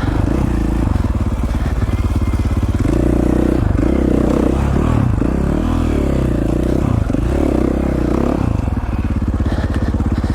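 2017 KTM 450 XC-F's single-cylinder four-stroke engine running under way, the revs rising and falling repeatedly with the throttle, busiest through the middle.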